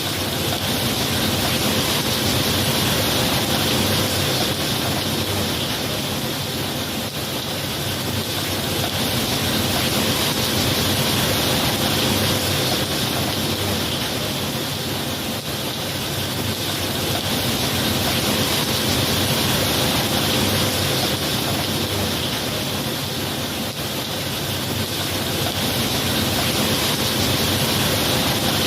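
Heavy rain falling in a steady, dense hiss that slowly swells and eases about every eight seconds, with no thunder.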